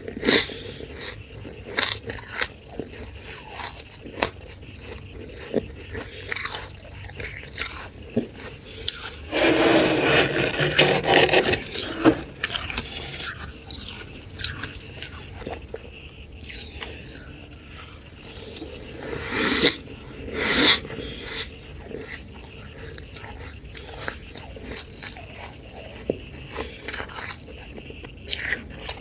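Freezer frost being scraped and bitten: scattered crisp crunches and scrapes, with a louder, denser stretch about nine to twelve seconds in and another burst around twenty seconds in.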